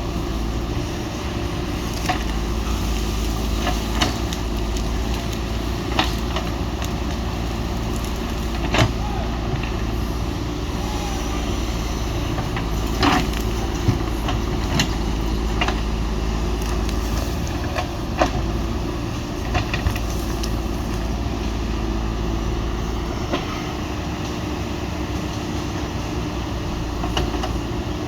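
JCB 3DX backhoe loader's diesel engine running steadily under work, with occasional sharp knocks and clunks scattered through it.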